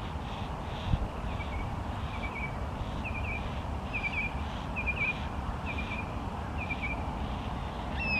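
Juvenile yellow-tailed black cockatoo begging while being fed, a short high call repeated about once a second. A single thump about a second in, a steady low rumble throughout, and a louder, falling bird call near the end.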